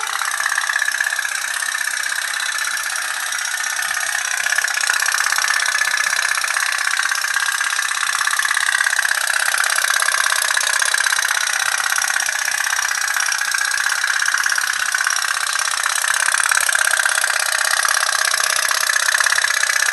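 Pop-pop steam toy boat running, its candle-heated boiler driving a rapid, steady tikki-tikki ticking that slowly wavers in pitch.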